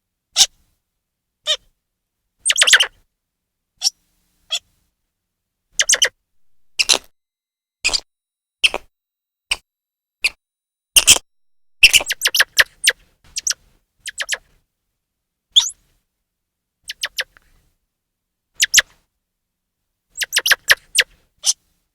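Grey squirrel chirping calls: short, sharp, high chips, some single and some in quick runs of three or four, separated by silent gaps.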